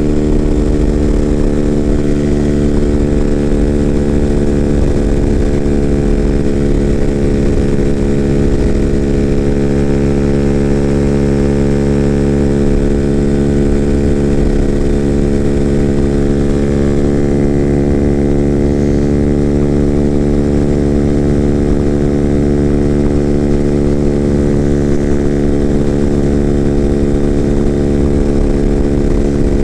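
Single 200 cc fuel-injected engine of a Freedom Fighter 200 EFI motorcycle, running with its factory exhaust baffle removed, held at a steady cruising speed in sixth gear on the highway. The engine note stays at one even pitch, with no shifts or revving.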